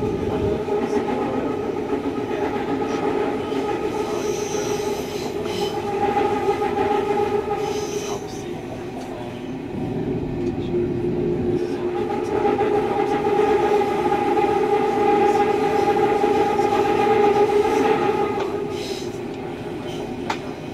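Berlin S-Bahn electric train running, heard from inside the carriage: a steady rumble with a whine running through it and now and then a sharp wheel click. The noise eases off a little about halfway, builds again for several seconds, then falls away near the end.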